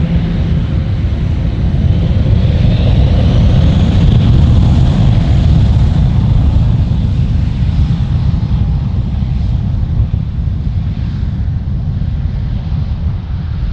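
Jet airliner engines at takeoff power: a loud, deep rumble that swells about four seconds in and then slowly fades.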